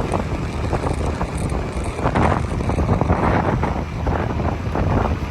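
Wind buffeting the microphone over the steady rumble of a moving motorcycle, with a few stronger gusts a couple of seconds in.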